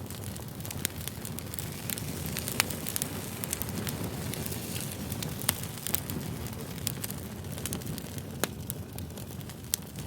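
Campfire burning, with a steady low rumble and frequent sharp, irregular crackles and pops of burning wood.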